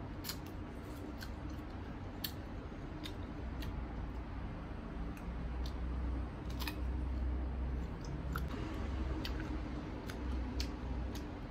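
Crunchy bites and chewing of slices of sour unripe green mango: a scatter of sharp, irregular crunches and mouth clicks.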